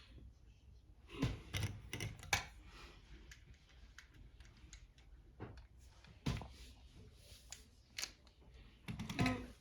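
Hard plastic kit parts clicking and knocking together as they are handled and fitted, in irregular clusters of sharp clicks.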